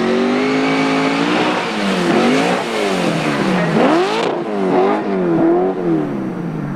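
Rover SD1 rally car's engine revving hard as it passes, its pitch climbing and dropping several times as the driver accelerates, lifts and changes gear.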